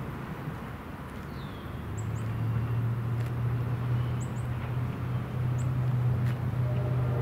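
NJ Transit electric commuter train approaching, a steady low hum that sets in about two seconds in and grows louder as it nears. Birds chirp now and then.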